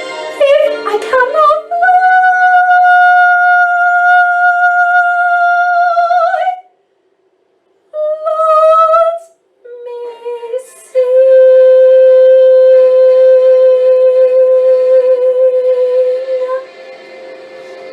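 High soprano voice singing long held notes with vibrato: a note of about four seconds, a pause, a shorter note, then a long lower note of about five seconds. Quieter backing music follows near the end.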